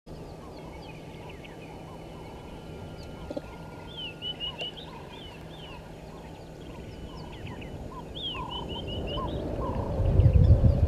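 Several wild birds calling, with quick runs of repeated chattering notes. A low rumble builds over the last couple of seconds and becomes the loudest sound.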